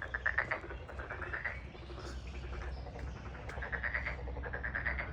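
Chorus of calling animals, most likely frogs: repeated trains of rapid clicking pulses, each about half a second long, several overlapping, over a low steady rumble.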